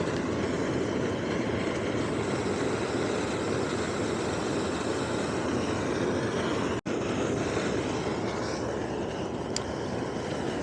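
Strong wind blowing on the microphone over the rush of surf breaking on the beach, a steady loud rushing noise, broken by a split-second dropout about seven seconds in.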